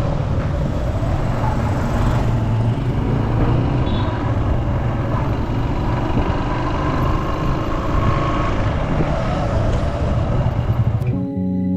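Steady road and traffic noise from driving on city streets: a low engine-and-tyre rumble with hiss. About 11 seconds in it cuts off abruptly and music begins.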